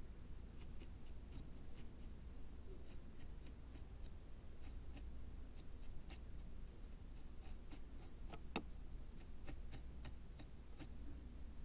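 Small tools and materials being handled while making a miniature dry-landscape garden diorama: faint, scattered small clicks and light scratching. One sharper click comes about eight and a half seconds in.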